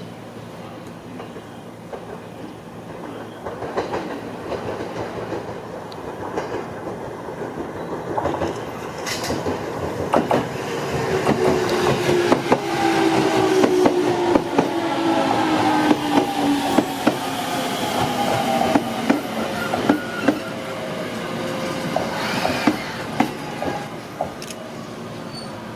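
Electric train pulling into a station: wheels clacking over rail joints, with a whine that slowly falls in pitch as it brakes, loudest around the middle and easing off toward the end.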